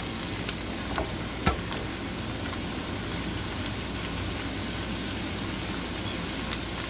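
Garlic, onion and pepper sizzling in oil in a small stainless steel skillet, stirred with a wooden spoon that gives a few light knocks against the pan.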